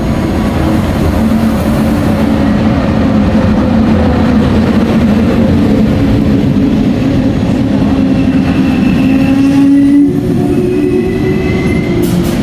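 Passenger train running close by at a station platform: a loud, steady rumble with a hum whose pitch steps up about ten seconds in.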